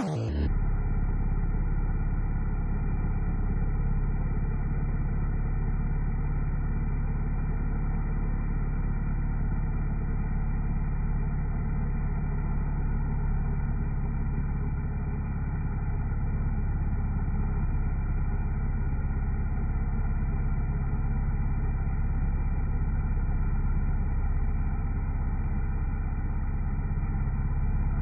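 Motorcycle engine idling steadily, with an even low-pitched running note that does not change.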